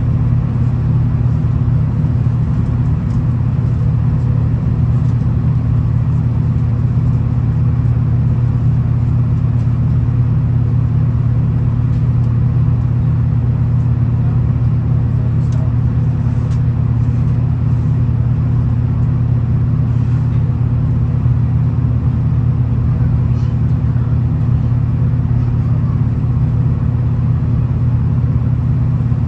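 V/Line VLocity diesel multiple unit running at steady speed, heard from inside the carriage: a steady low drone of the underfloor diesel engine and wheels on rail, with a few faint ticks.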